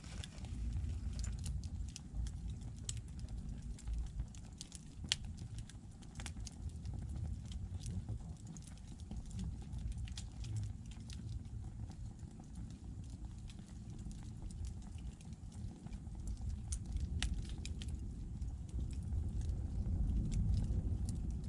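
Wood candle of bundled thin logs burning, with scattered sharp crackles and pops over a steady low rumble.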